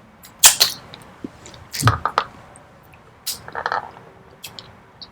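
Close-miked chewing with wet mouth smacks and squelches: a scatter of short, sharp clicks, the loudest about half a second in.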